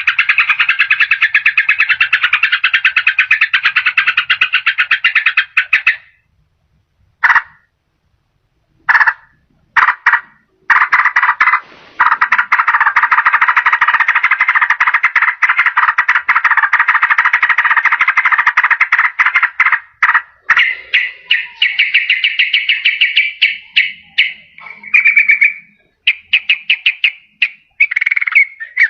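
Yellow-vented bulbul (trucukan) singing in fast rattling trills, the rapid 'ropel' song. One long run stops about six seconds in, a few short bursts follow, then another long run that gives way to shorter, choppier phrases near the end.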